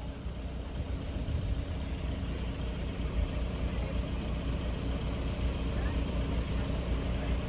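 Steady low rumble of engines idling, with a few faint steady tones over it.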